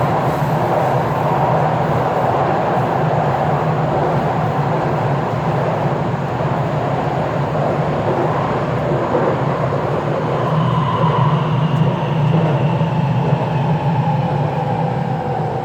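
Taipei Metro C341 metro train running between stations, heard from inside the car: a steady rumble of wheels on rail under the whine of the traction motors. From about ten seconds in the whine slowly falls in pitch, as the train begins to slow.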